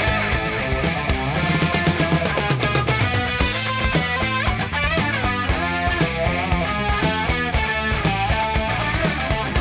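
Instrumental hard-rock passage: an electric lead guitar plays bending, gliding lines over bass and a drum kit.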